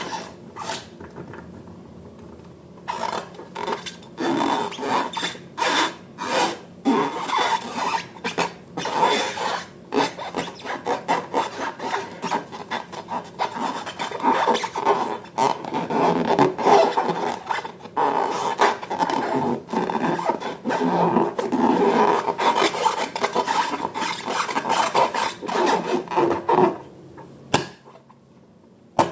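Slime being stirred in a container, a utensil scraping and rubbing against its sides in quick, irregular strokes with many small clicks. It starts about three seconds in and stops shortly before the end.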